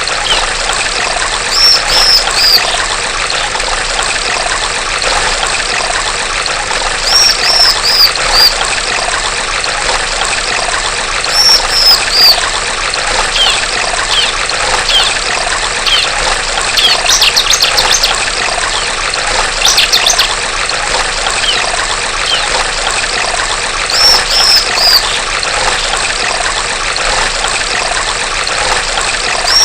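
Female bar-winged prinia (ciblek) calling in short groups of three or four high, falling notes every few seconds, with a quick run of sharp chips about halfway through. Under the calls is a steady trickle of running stream water.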